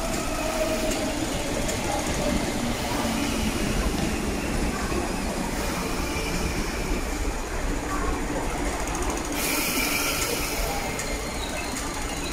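MTR Metro Cammell electric multiple unit train running into the station and passing close by, its wheels and running gear rumbling steadily as it slows along the platform. A sudden hiss joins the rumble about nine seconds in.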